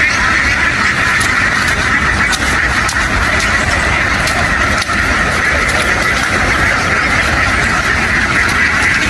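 A large flock of ducks quacking all at once in a dense, steady din, with a low rumble underneath.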